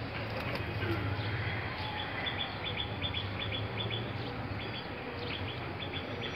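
Small bird chirping: short high chirps repeated a few times a second, starting about two seconds in, over a steady low hum.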